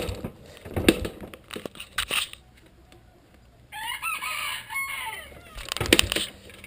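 A rooster crows once, one drawn-out call a little under four seconds in. Several sharp knocks and clatters come before and after it.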